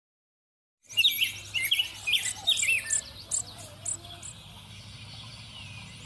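Small birds chirping: a quick run of short, up-and-down chirps starting about a second in, thinning out after the first couple of seconds, over a steady low hum.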